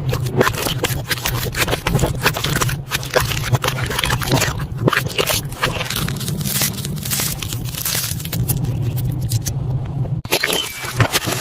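Slime being squeezed and worked by hand, giving a dense stream of crackling, popping clicks. The sound cuts off abruptly about ten seconds in and a similar crackling begins again.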